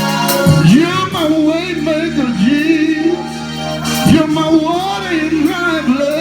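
Gospel worship music: a lead voice sings long, wavering runs with vibrato over held instrumental chords.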